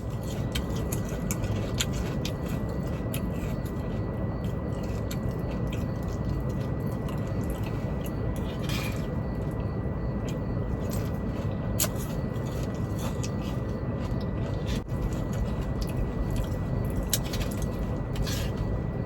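Steady low rumble of a semi-truck running, heard from inside the cab, with a thin steady whine and scattered small clicks and rattles throughout.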